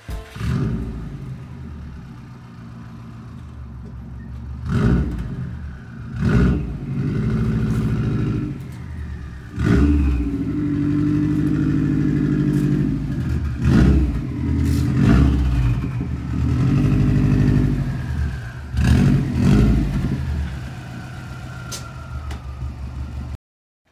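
Car engine running and revving in surges, with several sharp knocks and a faint falling whine now and then. The sound cuts off suddenly near the end.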